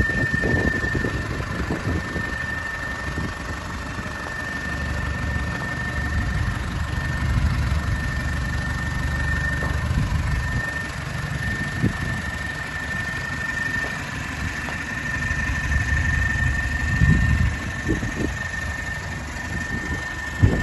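Nissan Cabstar truck engine idling, with a steady high-pitched whine over the low rumble and a few knocks. The rumble swells for several seconds in the middle and again near the end.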